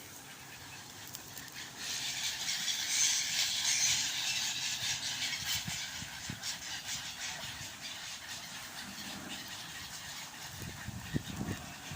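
A large flock of birds calling all at once, a dense high chatter of many overlapping short calls, loudest about three to four seconds in.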